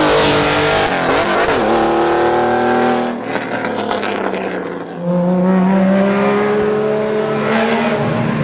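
Porsche rally car engine revving hard and climbing in pitch through the gears, with a short break for a gear change. The sound drops away about three seconds in and comes back loud and rising again about five seconds in.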